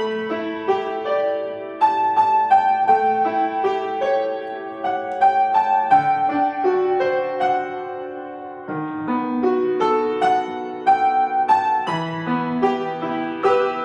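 Solo piano playing: a melody of struck notes over held chords, easing off briefly about eight seconds in before picking up again.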